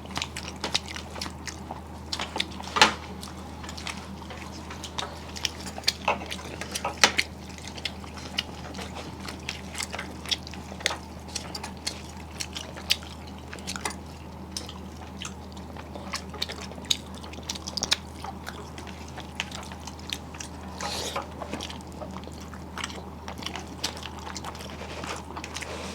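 Close-miked eating sounds: chewing, with scattered short clicks and wet mouth noises from rice and fish being eaten by hand, over a steady low hum.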